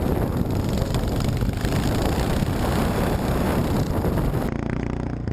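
Motorcycle engine running while riding, with wind buffeting the microphone. About four and a half seconds in, it changes to a steadier engine hum.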